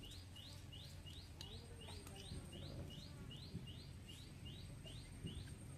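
A bird calling a steady, evenly spaced series of short rising chirps, about three a second, faint over low background noise.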